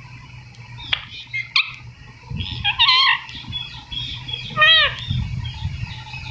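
Ringneck parrot calling and chattering: a few short squawks and warbling notes, the loudest a downward-arching call a little before the five-second mark.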